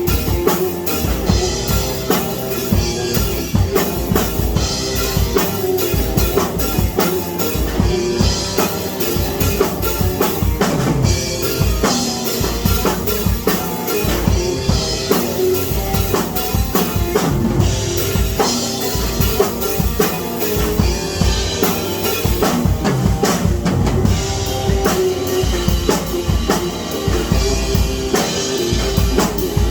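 Drum kit played continuously in a busy pattern, with bass drum, snare strokes and cymbals.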